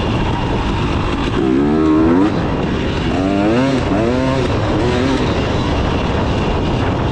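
KTM 300 two-stroke dirt bike engine running under way, its pitch rising and falling several times as the throttle is worked on and off.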